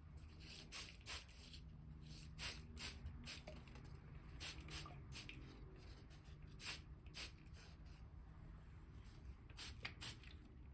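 Faint, irregular light clicks and taps, as of small objects being handled, over a low steady hum.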